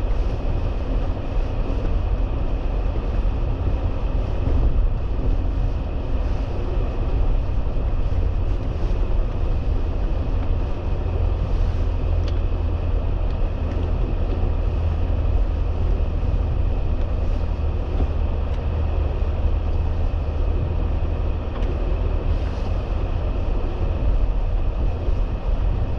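Jeep Gladiator Rubicon driving on snow: a steady low engine and tyre rumble heard from inside the cab.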